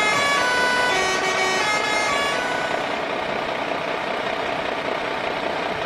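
A vehicle horn sounding in held tones that change pitch a few times over the first two seconds or so, over a steady engine noise that then carries on alone.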